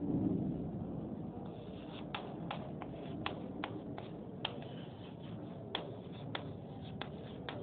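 Chalk tapping and scratching on a blackboard as words are written: about a dozen sharp, irregular taps over low room noise, with a brief low rustle right at the start.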